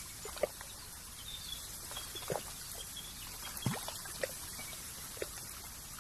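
Nature ambience: a steady outdoor hiss with scattered water drips plopping every second or so, each dropping in pitch, and faint high bird chirps.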